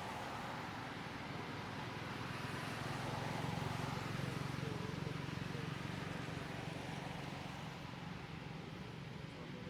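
A motor vehicle passing: a low engine hum that swells to its loudest about three to six seconds in and then fades.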